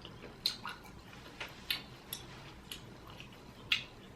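Crawfish being peeled and eaten: a handful of sharp, separate clicks and smacks from shells and mouth, one or two a second.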